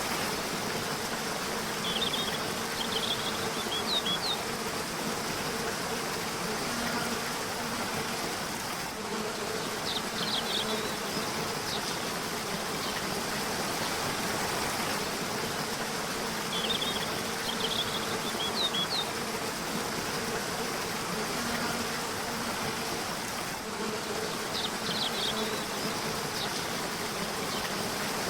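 Steady rush of a river or waterfall, with a bird giving short clusters of high chirps four times, about every seven seconds. A low hum comes and goes underneath.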